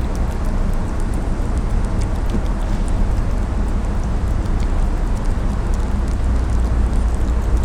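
Steady low rumbling outdoor noise, even throughout, with a few faint light ticks above it.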